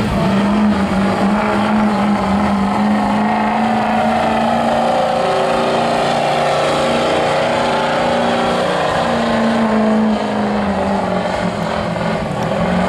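Pulling vehicle's engine running hard at high revs, dragging a weight-transfer sled down the track. The steady note holds for about ten seconds, then sags in pitch near the end as the run bogs down and slows.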